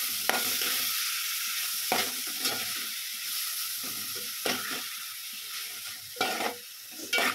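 Sliced mushrooms and masala sizzling in a hot metal pan while a metal spoon stirs them, scraping and knocking against the pan now and then.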